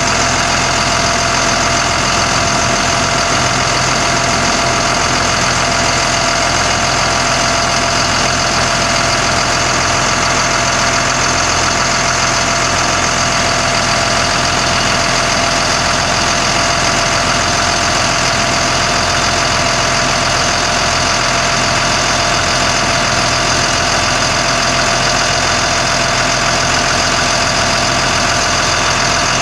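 Caterpillar diesel engine of a 1991 GMC Topkick bucket truck idling steadily.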